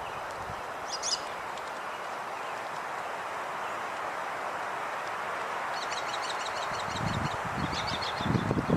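Small birds chirping over a steady outdoor background hiss: one chirp about a second in, then a run of quick repeated high chirps from about six seconds in. A low rumble comes in near the end and grows louder.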